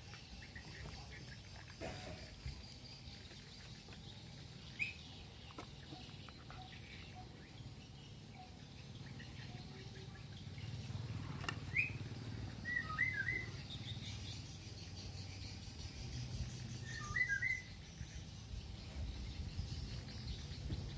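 Scattered short bird chirps, including two quick clusters of several chirps, over a low steady background rumble.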